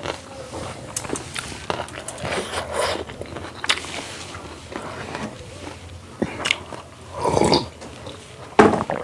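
A person eating close to the microphone: biting and chewing food, with wet mouth clicks and crunches, and a louder crunching stretch a little after seven seconds in.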